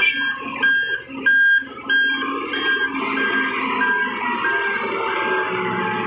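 Truck's reversing alarm beeping evenly, about three beeps every two seconds, over engine noise whose pitch slowly drops.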